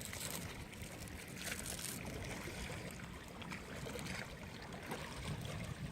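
Wind buffeting the microphone over the wash of sea water, an uneven low rumble with brief hissy surges of water.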